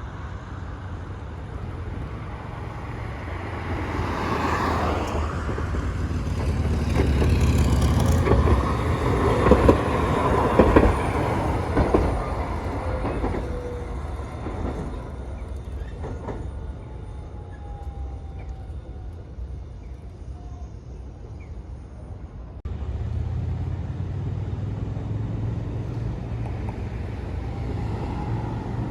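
A train passing, its running noise building to a peak with a few sharp knocks from the wheels, then fading; near the end the sound switches abruptly to a steadier low rumble of rolling stock.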